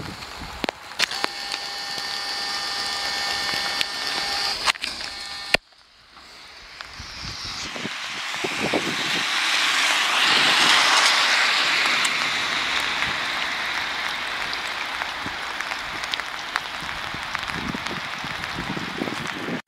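A vehicle passing on a wet road: tyre hiss swells to a peak and slowly fades. Before it, after a sudden cut, there are a few seconds of steady traffic-like noise with several faint high steady tones.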